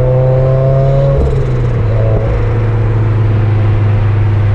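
Straight-piped turbocharged Subaru BRZ's flat-four engine and exhaust under load, its pitch climbing slowly before dropping about a second in as the driver lifts or shifts, then holding a steady, lower drone. It has no exhaust on it beyond a straight pipe.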